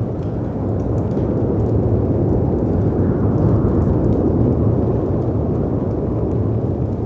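Layered storm ambience: a deep, steady rumble of wind and breaking sea waves that swells and eases slowly, with faint scattered crackles of a wood fire over it.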